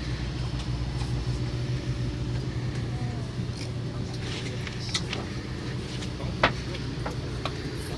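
Fishing boat's engine running steadily with a low, even hum, with a few short clicks or knocks on deck, the loudest about six and a half seconds in.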